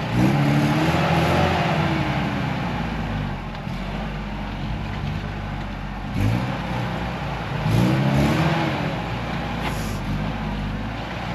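Off-road 4x4 engine revving hard under load, surging up and back down twice: once right at the start and again about eight seconds in.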